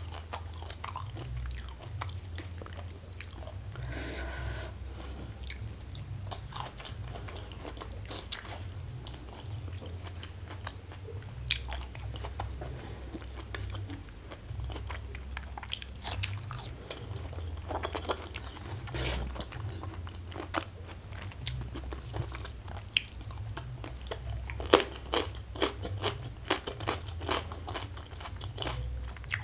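Close-miked eating: a person chewing and biting food, with crisp crunches that come thicker and sharper near the end.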